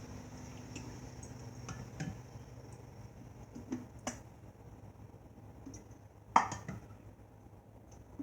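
Light clicks and knocks of a plastic hummingbird feeder and kitchen dishes being handled while the feeder is filled with nectar, with one sharper knock about six and a half seconds in.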